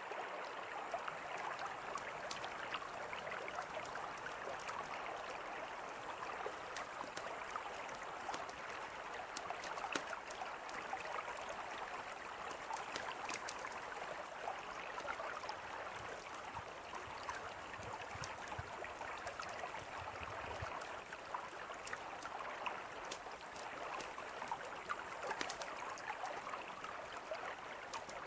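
Mountain river flowing in a steady rush, with a campfire crackling over it in scattered sharp pops.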